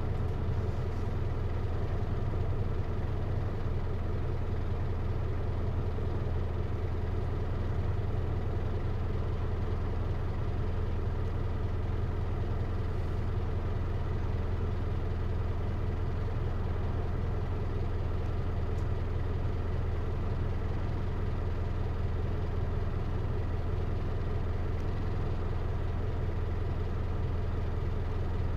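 Hino Liesse microbus's J05C diesel engine idling steadily, heard from inside the passenger cabin, with an even low hum that holds one pitch.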